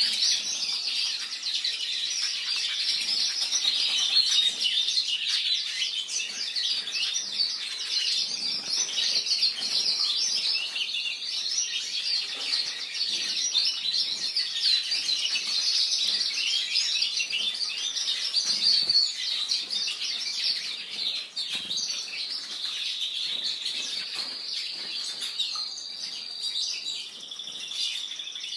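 Belgian canaries chirping and singing without pause, a dense stream of high trills and tweets.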